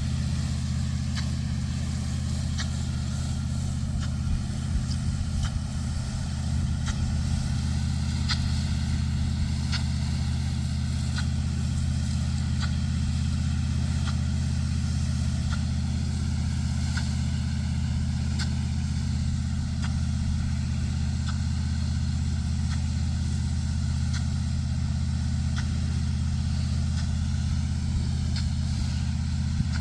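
A large engine running steadily at constant speed, with faint sharp clicks now and then over it.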